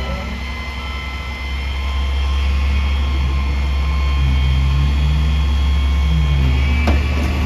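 Peterbilt 320 front-loader garbage truck's diesel engine running with a heavy low rumble, getting louder as it revs up about two seconds in, with a high whine that rises slowly in pitch. A single sharp knock comes near the end.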